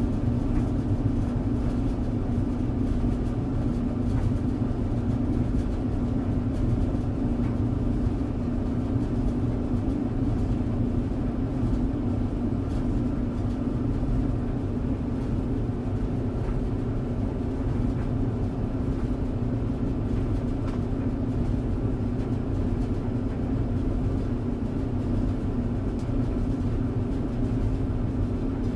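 Clothes tumble dryer running steadily, a constant hum over a low rumble of the turning drum and motor.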